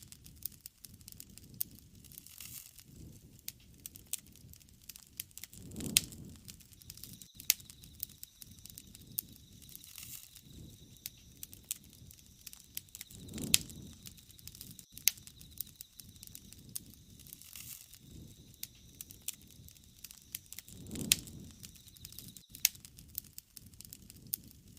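Wood fire crackling, with sharp irregular pops and snaps over a low hiss. Three times a low soft rush swells up and fades.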